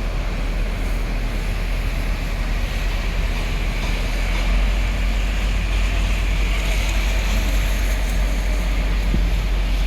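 Thai-built passenger train running: a steady low rumble with a rushing noise over it.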